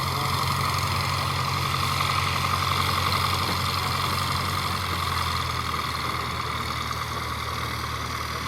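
Small propeller plane's piston engine running steadily at an even pitch.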